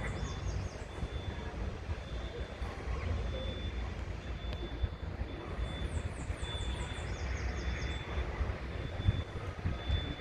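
Steady low rumble of outdoor noise, with a quick series of high chirping notes at the start and again about six seconds in, and a faint short high beep repeating about once a second.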